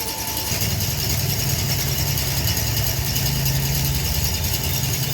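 A machine's motor running with a steady low hum that starts about a second in.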